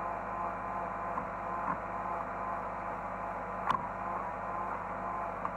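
Hydraulic excavator's engine running steadily, heard from inside the cab as a constant hum, with a few light clicks and knocks, the sharpest about two-thirds of the way through.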